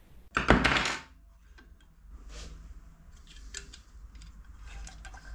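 Spark plug wrench on a brushcutter engine's spark plug: a short metallic scrape about half a second in, then light metal clicks and clinks as the plug is worked loose.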